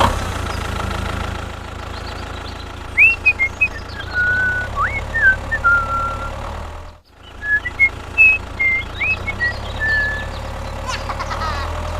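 An engine running steadily with a low drone, with short rising whistle-like chirps over it. It cuts out for a moment about seven seconds in, then carries on.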